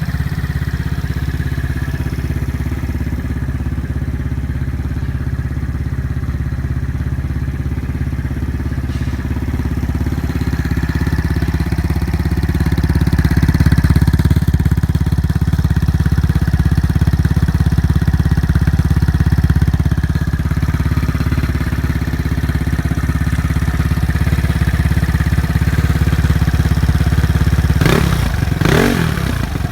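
Third-generation Yamaha Cygnus X 125 cc single-cylinder scooter with a type666 spec156 aftermarket muffler, running hard under way with a steady exhaust note that rises and falls gently. Near the end the revs swing quickly up and down a few times.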